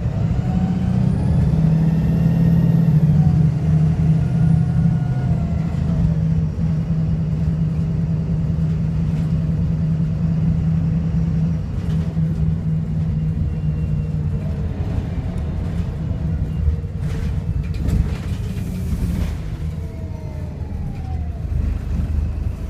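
VDL SB200 bus's diesel engine pulling under acceleration through its Voith automatic gearbox, a whine rising in pitch over the first few seconds and then holding steady, easing after about fifteen seconds, with a few rattles near the end. The engine is misfiring and sounds unhealthy.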